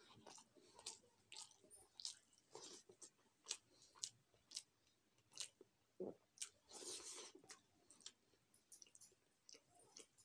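Close-up chewing of rice and potato-pea curry eaten by hand: soft, irregular wet clicks and smacks from the mouth, with a longer louder one about seven seconds in.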